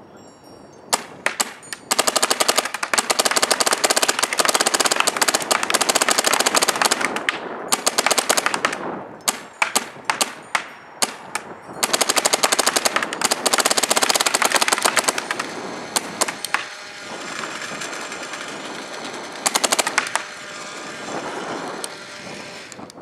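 Empire Axe paintball marker firing with the trigger bounced on capped semi-auto at 25 balls per second, so it sounds full-auto. A few single shots come first, then long rapid strings with shorter bursts in between.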